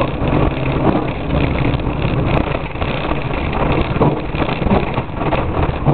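Škoda Favorit rally car's four-cylinder engine running as the car drives along, heard from inside the cabin with road and tyre noise over it.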